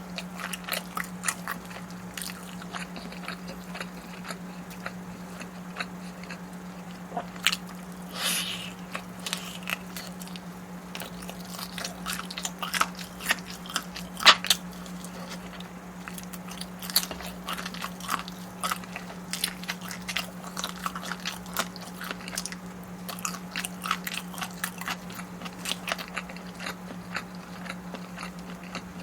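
Close-miked eating: a person biting and chewing food, with irregular crunches and wet mouth clicks, the sharpest crunch about halfway through. A steady low hum runs underneath.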